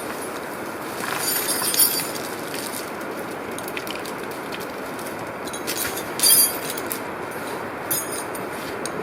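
Tractor running steadily while logging with a winch, with short metallic clanks and rattles, the loudest a little past the middle.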